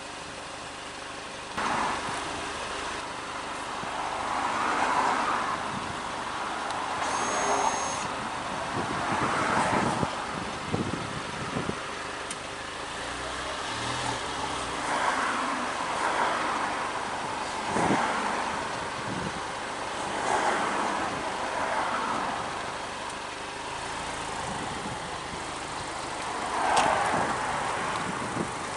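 The 2017 Alfa Romeo Giulia Veloce's 2.0-litre turbocharged four-cylinder petrol engine idling, heard close to its exhaust tailpipes. A steady hum runs under a rushing exhaust sound that swells briefly every few seconds.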